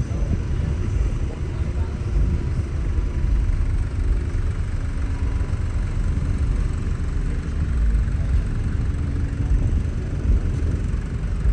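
Steady low rumble of truck engines idling, with faint voices underneath.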